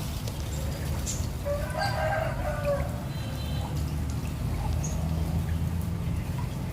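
A rooster crows once, starting about a second and a half in and lasting a little over a second, followed by a short higher call, over a steady low hum.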